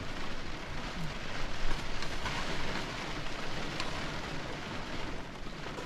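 Prawns and vegetables sizzling as they fry in a pan: a steady hiss with a few light clicks.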